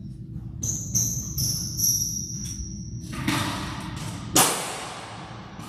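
Squash ball struck hard with a racket, one sharp loud crack about two-thirds of the way in that rings on in the enclosed court, after a softer hit. Earlier, high-pitched squeaks, typical of court shoes on a wooden floor.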